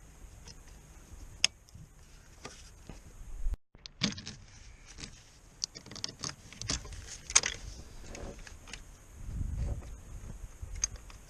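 Scattered metallic clinks, knocks and clatter of tools and parts being handled during car repair work, with a brief cut in the sound about three and a half seconds in.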